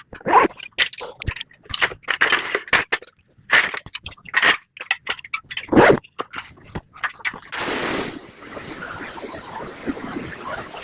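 Irregular scraping and knocking. About three-quarters of the way through, a short loud burst of hiss, followed by a steady lower hiss.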